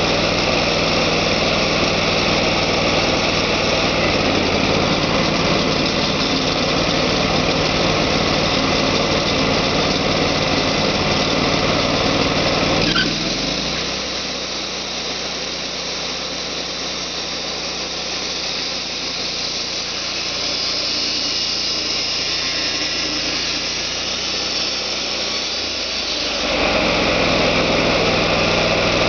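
Portable sawmill's engine running steadily. About halfway through, the sound drops and its low hum thins out for some thirteen seconds, then comes back at full level near the end.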